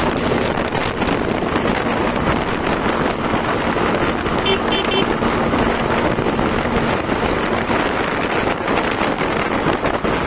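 Wind buffeting the microphone on a moving Hero Xtreme 160R motorcycle, with the bike's engine humming steadily underneath. Three short high beeps sound about halfway through.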